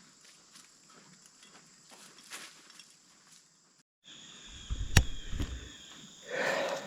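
Faint soft steps and rustles of a hiker walking a woodland trail. The sound cuts out briefly after about four seconds, then a sharp knock over a low rumble and a short, louder rustle near the end.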